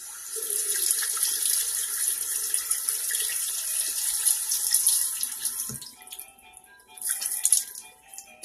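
Running water: a steady hissing rush that starts at once and dies away about six seconds in, then two short gushes near the end.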